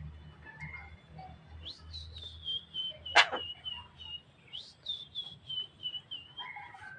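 Javan myna calling: one loud, sharp downward-sliding call about three seconds in, among a run of softer short whistled notes repeating about twice a second.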